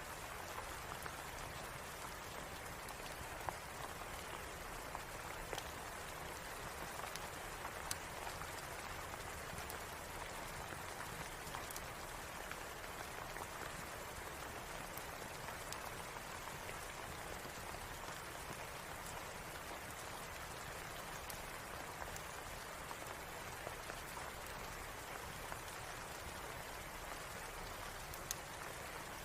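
Steady rain falling, with a few sharp crackles from a fireplace now and then.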